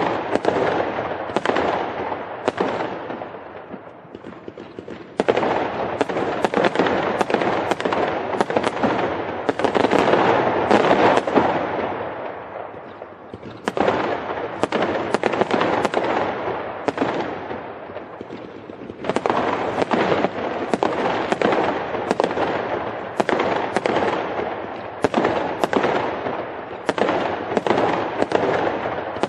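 Fireworks going off: a dense, continuous crackling studded with sharp bangs, one every half second to second. It eases off briefly three times and then builds again.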